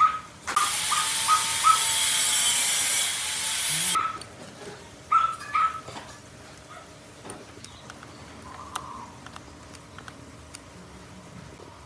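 A dog yipping in short, high barks, several in a row and then two more about five seconds in. A loud, steady hiss, the loudest sound, covers the first four seconds, and faint scattered clicks follow.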